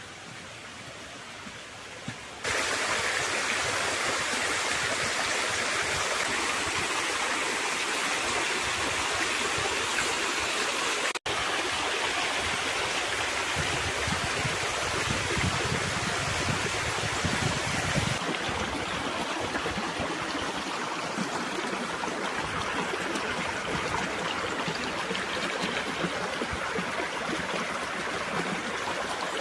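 Running water of a stream, a steady rushing noise. It jumps louder about two seconds in and breaks off for an instant near the middle.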